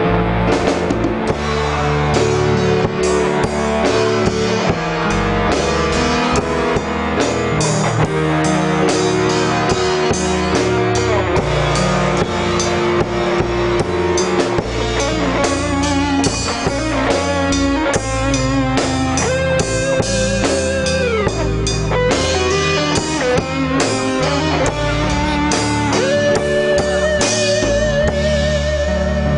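Instrumental band interlude with guitars and a drum kit, no singing; from about 16 seconds in a sustained lead melody with vibrato comes in.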